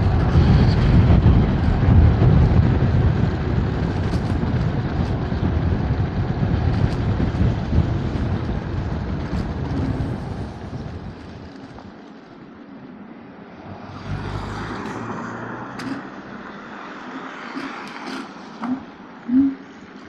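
Wind buffeting the microphone of a moving electric scooter, with road and traffic noise; the low rumble eases off about halfway through, leaving a quieter hiss with a brief swell and a few short low blips near the end.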